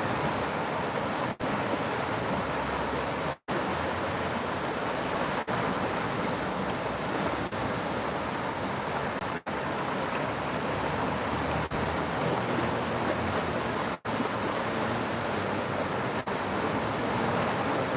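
A river rushing with a steady, full hiss of flowing water, cutting out briefly about every two seconds.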